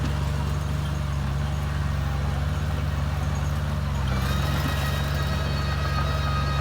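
Komatsu bulldozer's diesel engine running steadily under load. About four seconds in, a high-pitched whine joins it.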